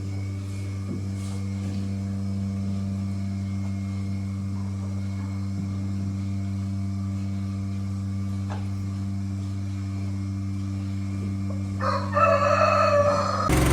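A steady low mechanical hum runs throughout. About twelve seconds in, a rooster crows once, lasting about a second and a half.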